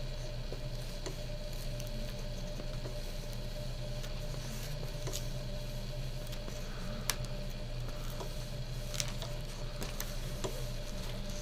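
Quiet steady hum with faint scattered clicks and rustles, the sharpest about seven and nine seconds in, as a covering iron is pressed and slid over heat-shrink plastic covering film on foam tail parts.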